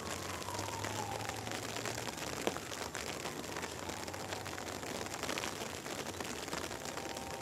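Steady rain falling on surfaces, with many fine drop ticks. A sharp click about two and a half seconds in is the loudest sound. A faint falling tone runs through the first second and a half.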